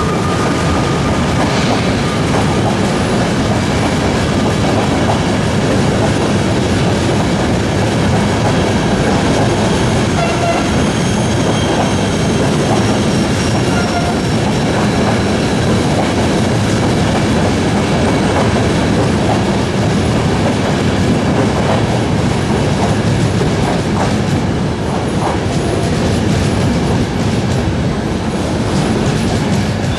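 A train rolling past on the station tracks: a loud, steady rumble of wheels clicking over rail joints, with faint high-pitched wheel squeal at times.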